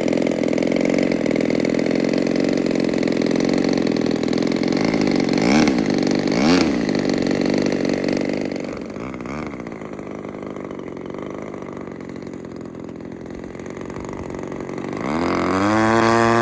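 Small 20cc gasoline engine of an RC P-51 model plane running steadily, dropping quieter for several seconds, then speeding up with a clear rise in pitch and loudness near the end as the throttle opens.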